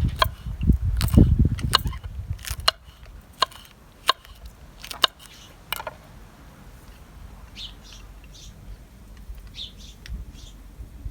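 A low rumble and a run of sharp clicks and knocks over the first few seconds, then faint short bird chirps repeating through the second half.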